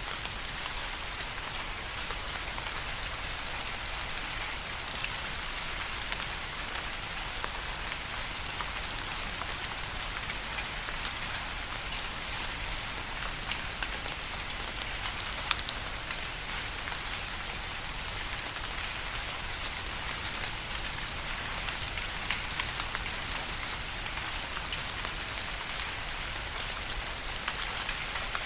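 Steady rain with individual drops pattering on a surface, a continuous hiss dotted with many small distinct drop hits.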